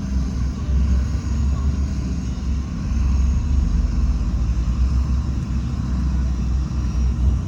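Heavy diesel earthmoving machinery running steadily, a deep continuous rumble.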